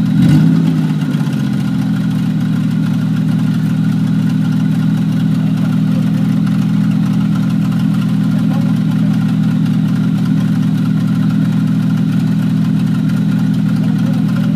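Off-road race truck engine running steadily with a low, even drone, after a short rev in the first second and a half that falls back.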